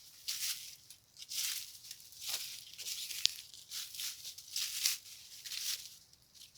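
Footsteps crunching over dry leaves and parched ground, a step roughly every half second to second, with one sharp snap a little past the middle.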